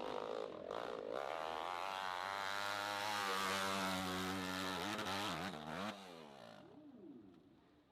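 Motorcycle engine revving high, its pitch wavering as the throttle is worked. About five to six seconds in the revs drop and the sound fades away.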